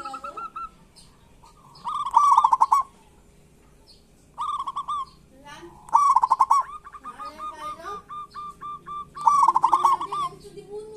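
Zebra doves (perkutut) calling in the rattling 'kerot' and cooing 'bekur' style: short, loud, rapidly pulsed phrases repeat every two to three seconds. Midway there is a run of quick, even notes, with fainter calls in between.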